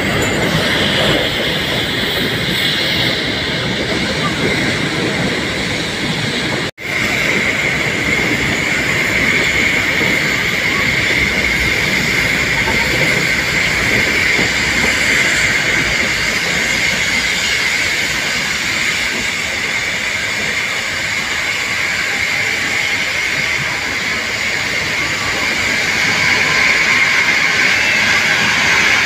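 Narrow-gauge mountain passenger train running, heard from an open carriage doorway: steady rumble and rattle of the carriages on the rails with a continuous high-pitched tone over it. The sound cuts out for an instant about seven seconds in and grows a little louder near the end as the carriage enters a tunnel.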